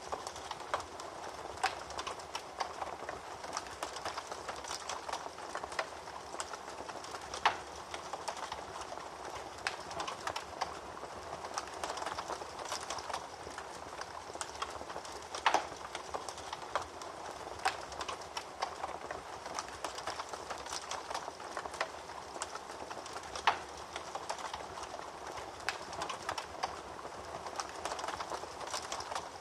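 Wood fire crackling in a fireplace: a steady soft hiss with frequent small snaps and a few louder pops, about 7, 15 and 23 seconds in.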